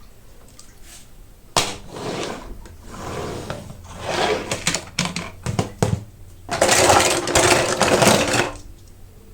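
Toy packaging being opened by hand: a sharp crack, then bursts of crinkling and tearing with quick clicks, loudest in a long tear near the end.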